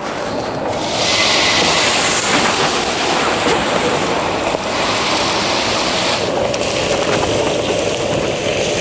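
Food sizzling and frying on a hot griddle: a loud, steady hiss that swells up about a second in.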